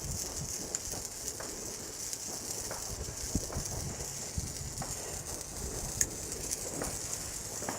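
Small garden fireworks burning: a steady faint fizz with scattered sharp crackles, the strongest about six seconds in, over a low rumble.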